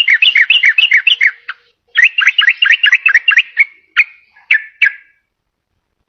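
Yellow-vented bulbul (trucukan) singing: two quick runs of bubbly, chattering notes, each about a second and a half long, then a few single notes.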